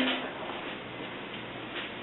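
Quiet background: a steady hiss with a faint low hum, and one faint tick near the end.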